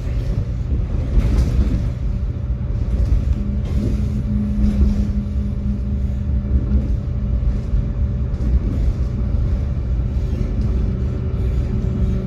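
Tram running along the line: a steady low rumble of wheels on rails with the hum of its electric traction motors, the hum strengthening for a few seconds around four seconds in.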